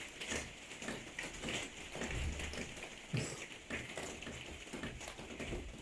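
Heavy rain falling, with irregular drops and drips tapping on a hard surface close by.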